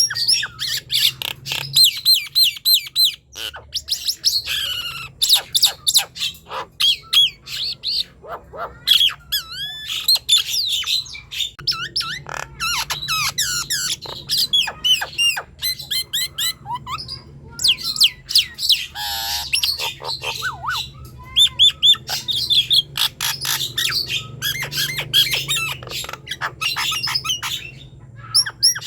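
Nias hill myna singing in a rapid, unbroken stream of varied whistles, squawks and sharp clicks, some notes sweeping up and down in pitch.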